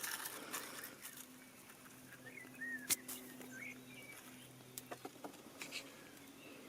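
Faint rustling with scattered clicks and one sharper click about three seconds in, and a few short, soft high chirps in the middle.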